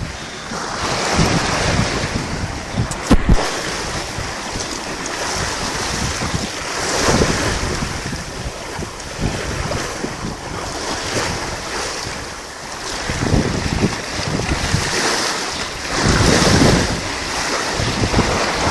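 Strong storm wind blasting the microphone over the rush of waves against a sailing boat, swelling and easing in gusts. One sharp knock about three seconds in.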